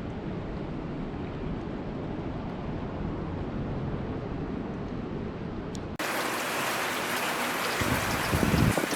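Steady rain noise, deep and rumbling at first, then switching abruptly about six seconds in to a brighter hiss of falling rain, with a louder swell near the end.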